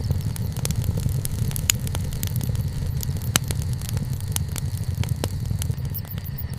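Wood campfire burning, crackling with frequent irregular sharp pops over a steady low rumble.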